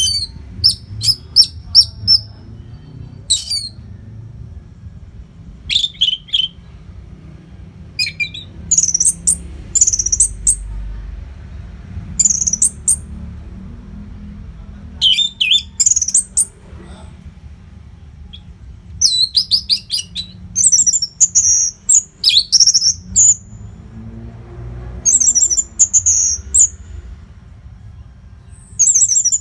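Orange-headed thrush (anis merah) singing a rapid song of high, fast-sweeping whistled notes, delivered in repeated bursts with short pauses between them, over a low steady hum.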